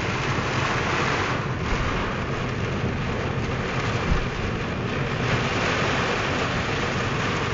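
Heavy downpour and strong wind beating on a car during a thunderstorm: a steady, dense rushing hiss.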